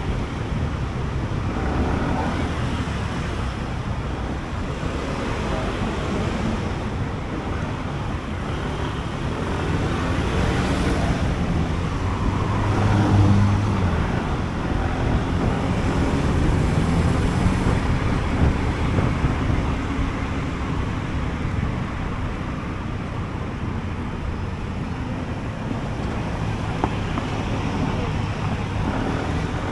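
SYM Jet X 125 scooter's single-cylinder 125 cc engine running under way, with wind rushing over the microphone. The engine pitch rises and gets louder around the middle as the scooter accelerates, then settles back to a steady cruise.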